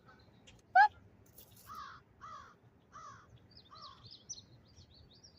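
A crow cawing four times in a steady series, each caw falling in pitch, after a single short, very loud note about a second in. Small birds chirp faintly and high in the background.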